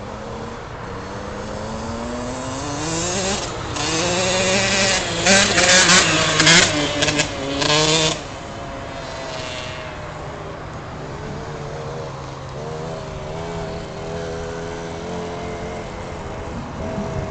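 Kawasaki KX60 two-stroke motocross bike engine accelerating, rising in pitch and getting louder over the first few seconds. It revs hard and at its loudest for about four seconds, then drops off suddenly to a fainter, steadier run.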